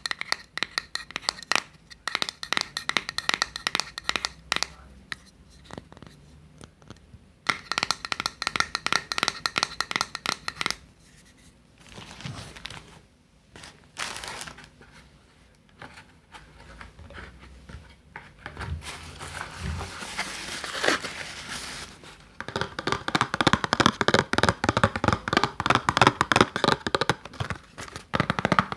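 Close-miked crinkling and crackling handling sounds in several bursts, with softer brushing sounds in the middle.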